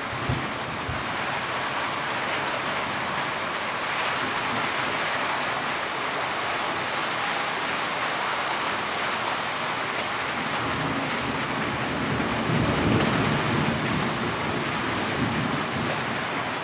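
Heavy rain falling and hissing steadily on surfaces. A low rumble swells for a couple of seconds near the end.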